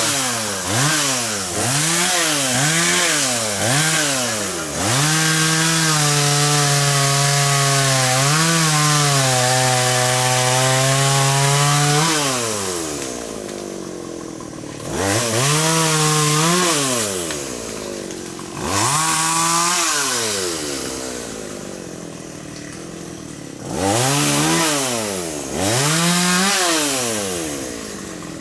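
Two-stroke chainsaw revved in short bursts, then held at high revs for about seven seconds while sawing wood. It drops back to a quieter idle, then revs up and down again several times.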